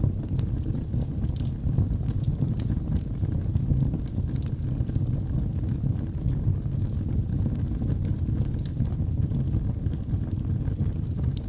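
Wood fire burning in a fireplace: a steady low rush of flames with frequent small, sharp crackles and pops from the burning wood.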